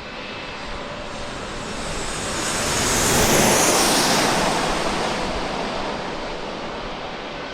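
Jet airliner passing by at close range. Its engine noise swells to a peak about three and a half seconds in and then fades, with a high whine that drops in pitch as it goes past.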